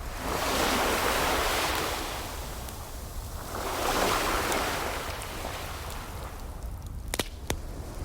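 Ocean waves washing in twice, each swell rising and falling away, over a low steady rumble. A fireplace gives two sharp crackling pops near the end.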